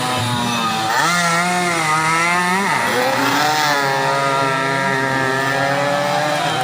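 Two-stroke 120cc underbone racing motorcycles running at high revs, more than one engine heard at once, their buzzing notes rising and falling; the pitch drops about two and a half seconds in, then climbs again.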